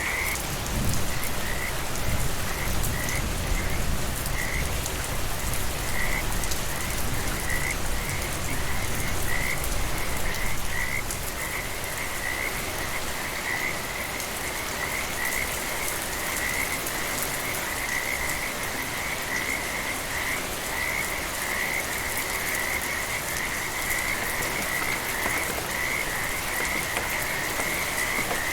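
Frogs calling over steady rain: a chain of short, repeated calls in one high pitch, sparse at first and running almost continuously later, with the even hiss of rain beneath. A low rumble sits under the first ten seconds or so.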